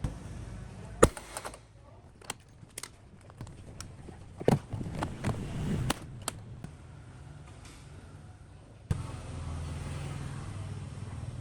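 A series of sharp knocks and clicks, irregularly spaced, the loudest about a second in, followed near the end by a low steady hum.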